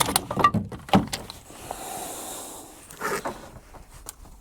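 Irregular knocks and clatter of fishing tackle being handled on a small boat, with a short soft rushing noise in the middle.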